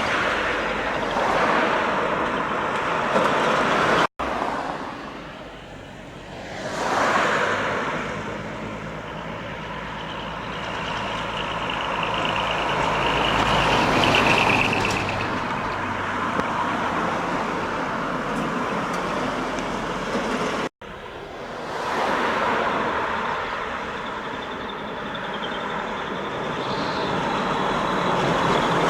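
Decorated Japanese trucks driving past one after another, their diesel engines running through manifold-split (マニ割) exhausts that bypass the muffler. The sound swells and fades as each truck passes.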